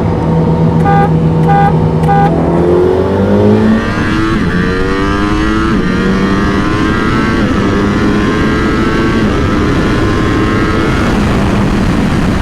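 A high-performance engine holds a steady note while three short beeps sound, then opens to full throttle in a roll race. Its pitch climbs through the gears, dropping back at each of three upshifts.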